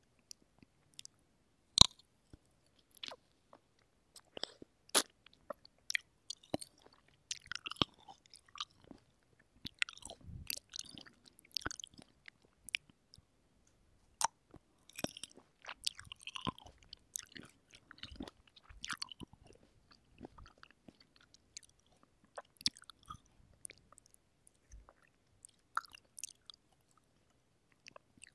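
Close-miked biting and chewing of fresh cherries: crisp bites through the skin and juicy chewing with mouth clicks, coming in irregular bursts. The loudest is a sharp bite about two seconds in.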